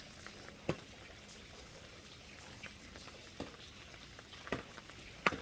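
Steady rain falling, with a few louder separate drops tapping on a surface, the clearest about a second in and near the end.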